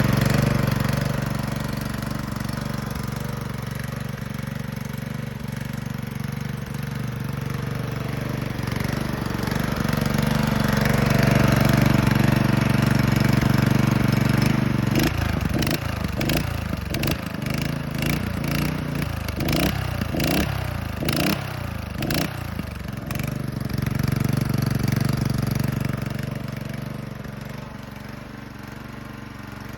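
Honda GX160 single-cylinder four-stroke engine running: a steady note that swells for a few seconds, then goes uneven for several seconds in the middle with the pitch swinging up and down, before settling back to a steady run that fades toward the end.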